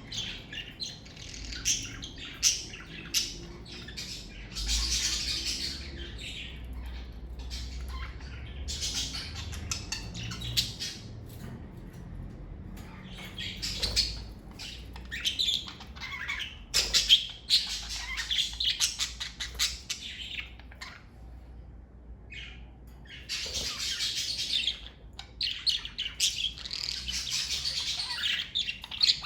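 Budgerigars (Australian parakeets) chirping and chattering: a dense run of quick, high chirps and clicks, with a short lull about two-thirds of the way through.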